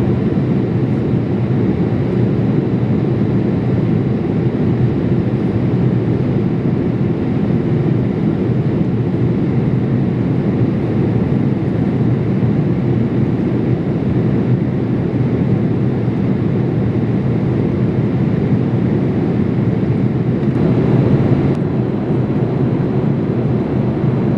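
Steady cabin noise inside a Boeing 787-8 airliner: the deep, even rush of the engines and the air streaming past the fuselage, with a brief swell of higher hiss near the end.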